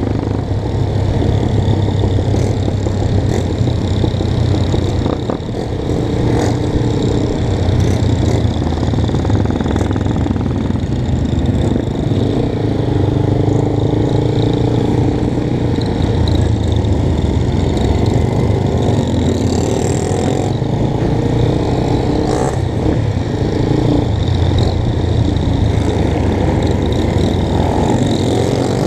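Motorcycle engines running steadily, with a continuous low rumble.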